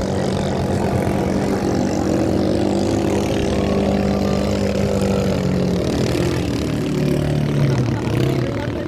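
Racing boat engines running hard, a steady loud drone whose pitch sags a little past the middle and then picks up again.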